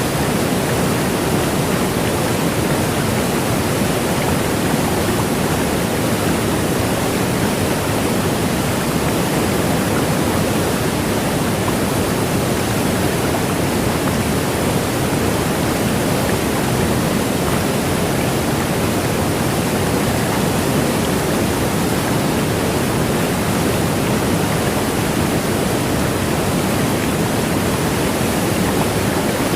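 Steady rush of flowing river water, a continuous even roar with no breaks.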